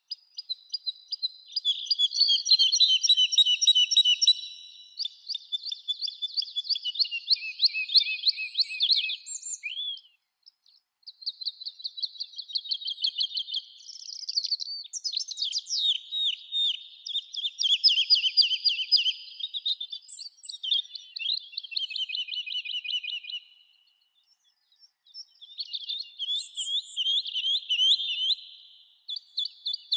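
Songbirds singing in a summer forest: high-pitched phrases of rapid trills a few seconds long, at times overlapping, with short pauses about ten seconds in and again near the end.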